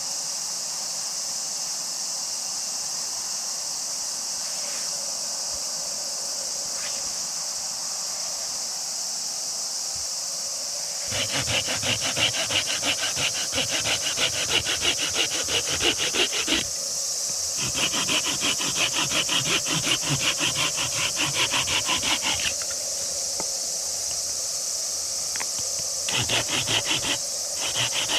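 Hand saw cutting wood in three bouts of rhythmic back-and-forth strokes, starting about a third of the way in, over a steady high-pitched drone of summer insects.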